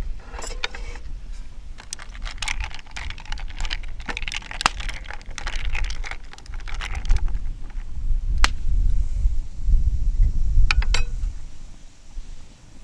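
Handling noises: rustling and clattering with sharp clicks as small objects are moved about, over a low wind rumble on the microphone. A single sharp click comes about two-thirds of the way in, and a quick few clicks near the end.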